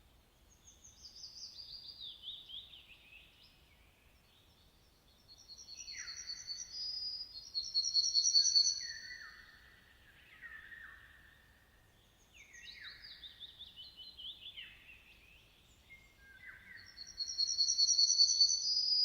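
Songbirds singing: twice, a run of quick down-slurred notes falls in pitch and is followed by a loud, very high, rapid trill, with lower down-slurred chirps in between.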